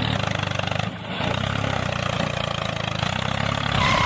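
An engine running steadily, dipping briefly about a second in, with a short beep near the end.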